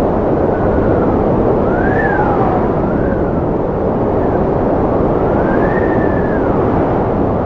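Strong wind blowing with a steady rushing noise and a howling whistle that rises and falls in pitch every second or two.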